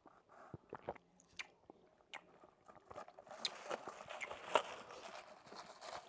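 Quiet close-up eating noises: scattered small mouth clicks at first, then a denser stretch of crackly chewing and handling sounds from about three seconds in.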